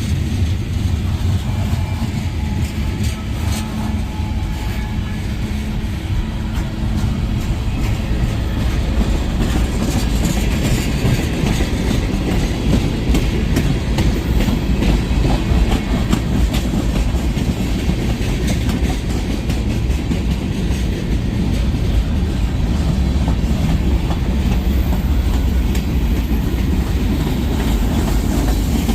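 Freight train cars rolling past, a steady heavy rumble with the clickety-clack of wheels over rail joints. A low steady drone, likely locomotive engines, fades out in the first seven seconds or so.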